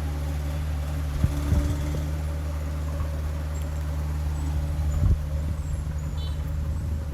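Heavy diesel engine of earthmoving machinery running steadily at a low hum, with a few short knocks at about one and a half seconds and five seconds in.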